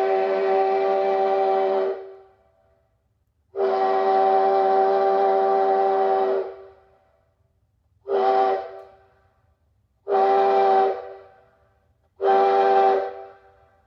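Locomotive chime whistle sounding a chord of several steady notes at once: a blast that stops about two seconds in, a long blast of about three seconds, then three short blasts.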